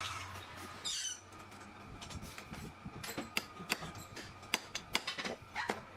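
Workshop work on shock-absorber parts: a brief squeak about a second in, then a run of irregular sharp clicks and taps over a steady low hum.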